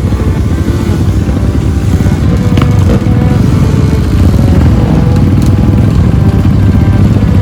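Trail motorcycle engine running loud under way, growing a little louder about three seconds in.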